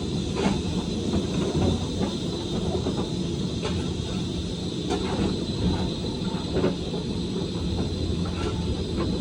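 Steam-hauled passenger train running along the track: a steady low rumble with short, irregular clicks from the wheels on the rails.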